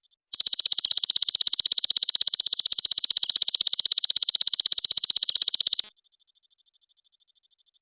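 A loud, high, rapidly pulsed buzzing trill from a recorded animal call, part of masteran call material for teaching a long-tailed shrike to mimic. It starts abruptly, holds steady for about five and a half seconds, then cuts off, with faint high chirps repeating before and after.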